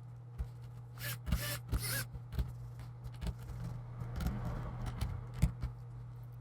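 Small screws being started into a laptop's hinge and lid by hand: scattered light clicks and short scrapes of metal on plastic, with a sharper click about five seconds in, over a steady low hum.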